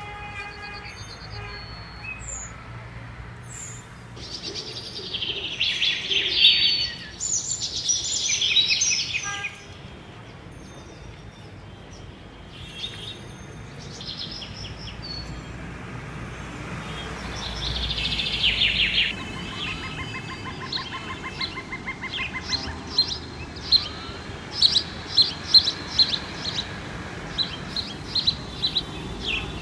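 Birds in a tree calling and chirping. There are two loud spells of chirps, about five seconds in and again near twenty seconds, then a run of short, sharp repeated notes near the end, over a steady low background noise.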